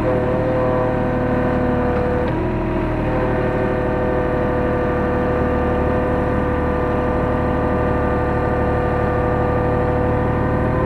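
Hyundai R35Z-9A mini excavator's diesel engine and hydraulics running steadily under working load. The engine note steps up at the start, dips briefly about two seconds in, then holds steady.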